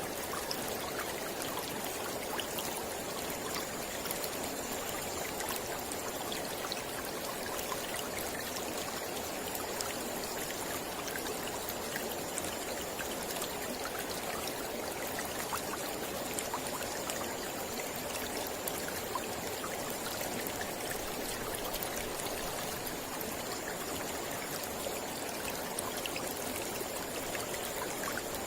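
Mountain river flowing steadily over rocks, an even rush of water with fine splashing and trickling throughout.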